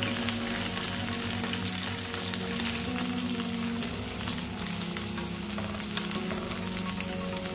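Potato wedges frying in hot oil in a pan: a steady sizzle with many fine crackles and pops.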